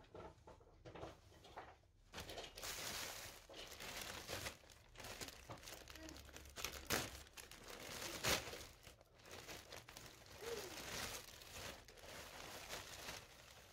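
Plastic or paper packaging being handled, crinkling and rustling for most of the stretch, with a couple of sharp clicks in the middle.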